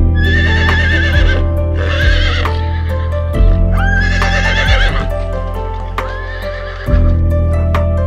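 A horse whinnying repeatedly, each neigh a quavering high call about a second long. Background music with a steady beat runs underneath.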